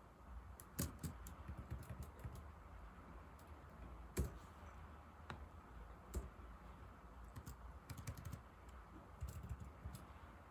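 Typing on an old laptop keyboard: irregular quiet key clicks, with a few louder keystrokes.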